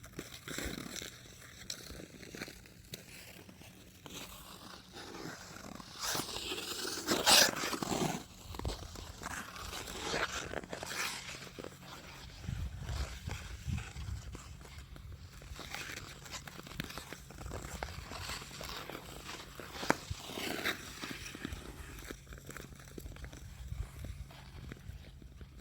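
Ice skate blades scraping and gliding over smooth lake ice in long strokes that swell and fade, the loudest about seven seconds in, with low rumble from wind on the microphone in the second half.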